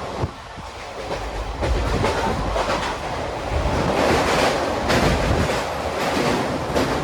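Indian Railways passenger train running, heard from inside the coach: a steady rumble with repeated clacks of wheels over the rails, growing louder about a second and a half in.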